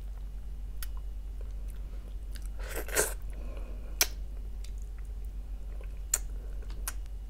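Close-up chewing and wet mouth smacks from eating boiled fish head out of fish soup, with sharp clicks scattered through and one louder smack about three seconds in. A steady low hum runs underneath.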